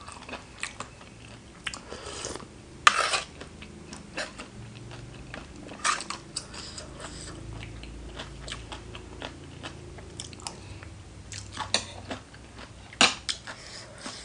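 A person chewing and biting food, with scattered crisp crunches and about four louder bites spread through.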